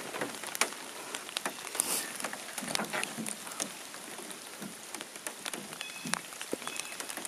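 Light rain pattering on the forest, heard as an even hiss with many scattered drips and ticks. A few faint, short high chirps come near the end.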